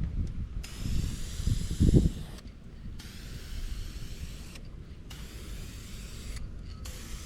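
Aerosol spray paint can hissing in about four bursts, each a second or two long with short gaps between. Wind rumbles on the microphone throughout and gusts loudest about two seconds in.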